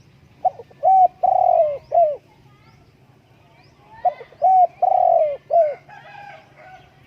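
Spotted dove cooing: two phrases of four low coos each, about three and a half seconds apart, with faint chirps of small birds behind.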